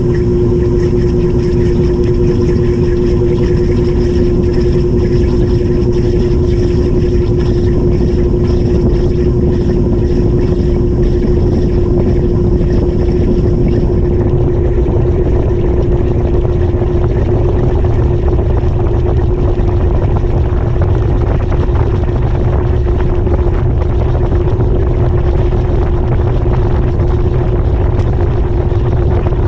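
GE GTW220ACKWW top-loading washing machine running with a loud, steady drone and low rumble, heard from inside the tub. A faint high whine drops out about halfway through.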